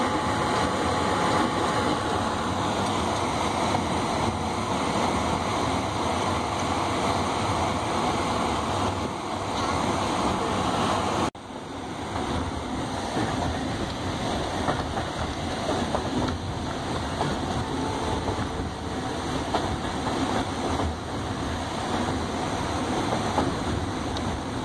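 Passenger train running, heard from inside the coach: a steady noise of wheels on the track and the carriage in motion. It drops out abruptly about eleven seconds in and picks up again at once.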